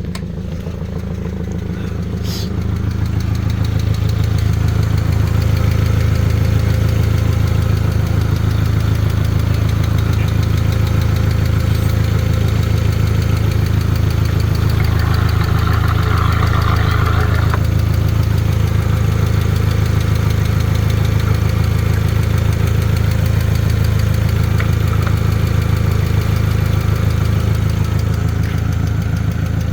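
VW Passat B5 2.0-litre AZM inline-four petrol engine idling steadily during a running test of the used engine; it gets louder a few seconds in, then holds an even idle.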